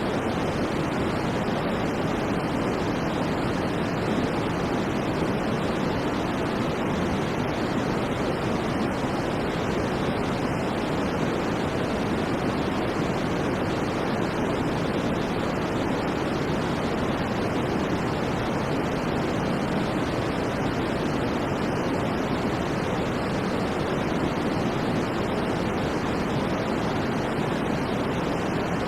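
Steady white noise: an even, unchanging hiss with no rhythm or events, fullest in the low and middle range and thinner in the highs.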